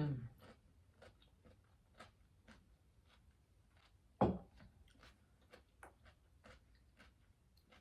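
A person chewing food close to the microphone: soft, irregular wet clicks of the mouth, with a louder bite or swallow about four seconds in.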